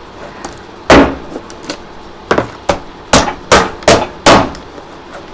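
A series of sharp blows, about seven in all: one loud strike about a second in, then a quick run of six more at roughly two and a half a second. These are hammer blows punching holes in a used plastic engine oil bottle so it cannot be refilled.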